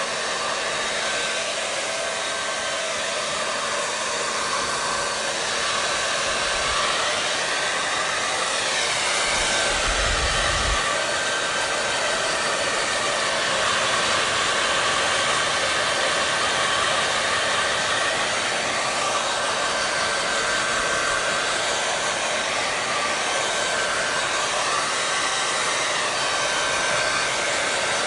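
Hair dryer running continuously, a steady rush of air with a faint motor whine that slowly wavers in tone. A brief low thump about ten seconds in.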